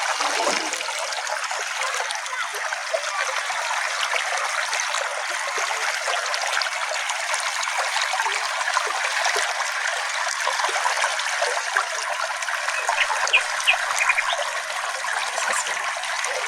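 Small creek flowing with a steady trickling rush of water, with a few brief high notes a little past the middle.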